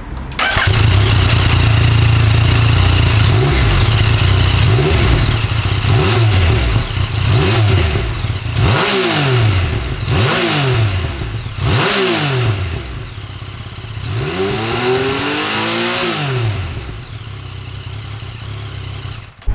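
2018 Yamaha MT-09's 847 cc inline three-cylinder engine idling and revved with a series of quick throttle blips, each climbing in pitch and dropping back to idle. It gives one longer, slower rev later on.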